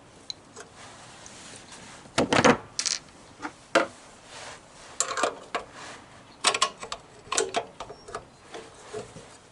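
Hand tools working on metal mower parts: irregular clicks, scrapes and clunks. The loudest come about two to three seconds in.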